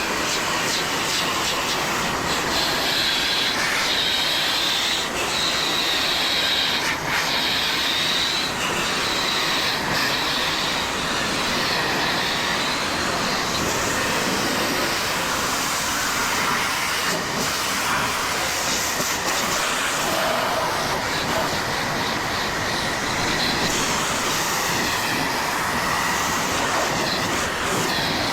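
Pressure washer rinsing a deck: a steady, loud spray of the water jet on wood, with a faint high whine over it.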